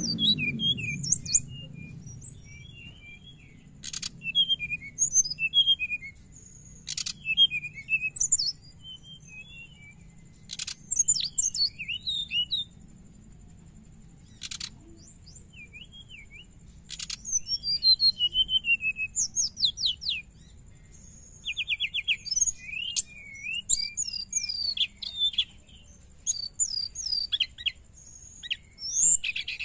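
A songbird giving rapid high chirps and chattering trills in bursts of a few seconds with short pauses between, the fast twittering 'ngriwik' call, broken now and then by a sharp click.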